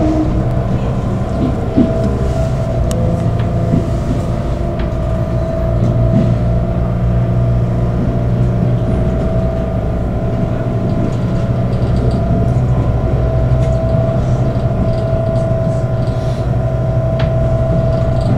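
Inside a diesel passenger train carriage while it runs: a steady engine drone with a constant whine above it, growing a little louder about six seconds in.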